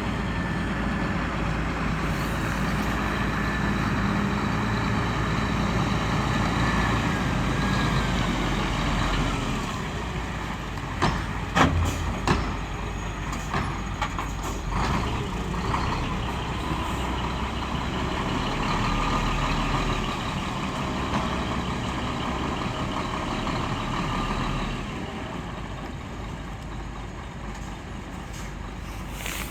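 Scania R480 truck's diesel engine running steadily, with a short cluster of sharp clicks or knocks about eleven to twelve seconds in.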